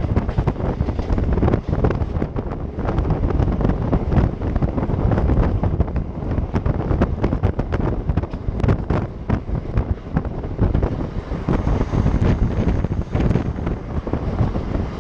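Wind buffeting the camera microphone on the outside of a moving LHB passenger coach, over a running clatter of irregular knocks from the coach's wheels on the rails.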